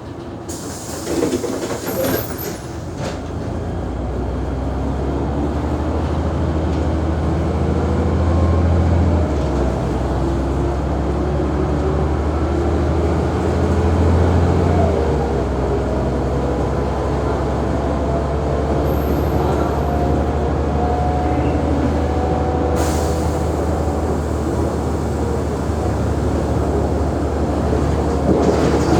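Mercedes-Benz O345G articulated bus's six-cylinder diesel engine pulling under load, with a gear whine that rises slowly as the bus gathers speed. The engine note steps down twice with gear changes, after a few knocks in the first seconds. The uploader says the bus's degradation can be heard in the recording.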